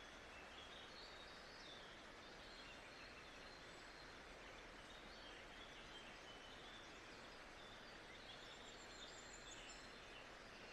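Faint nature-sound ambience: a steady hiss with faint bird chirps scattered through.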